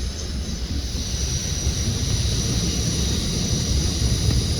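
Steady low rumble of a moving commuter train heard on board, with a faint high whine that grows from about a second in.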